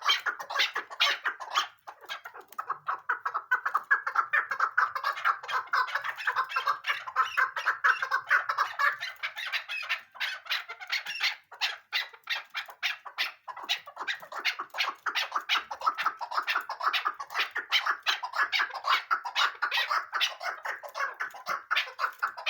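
Female chukar partridge calling: a long, unbroken run of rapid, short clucking notes.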